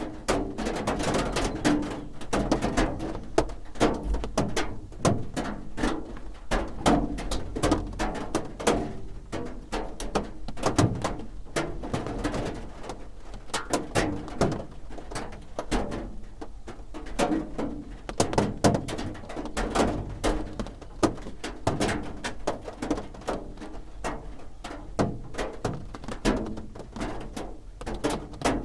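Raindrops drumming on a roof: a dense, irregular patter of drop impacts, heard from inside.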